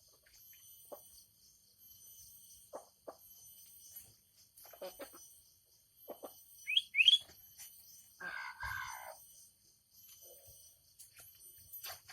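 Birds calling: scattered short chirps, with two quick rising chirps about seven seconds in as the loudest sounds, over a steady high-pitched background buzz.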